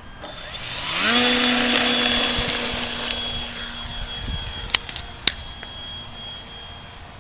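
Electric motor and propeller of a Parkzone T-28 Trojan RC plane throttling up in a rising whine, then holding a steady high-pitched hum that is loudest for the next couple of seconds. The motor note drops away about four seconds in, and two sharp clicks follow about a second later.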